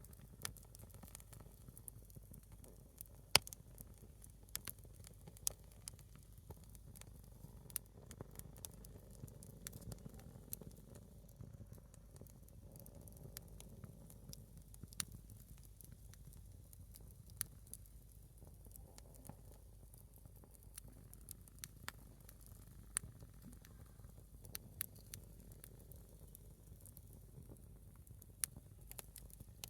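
A small wood fire burning a single log of firewood, giving faint, irregular crackles and pops over a low steady rumble. The sharpest pop comes about three seconds in.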